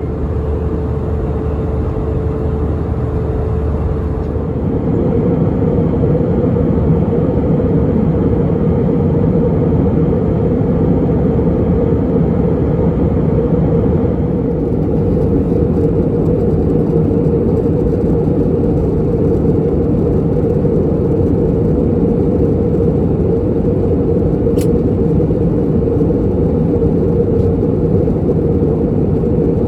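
Airbus A320neo cabin noise in descent: a steady drone of engines and airflow with a held hum, getting slightly louder about four seconds in.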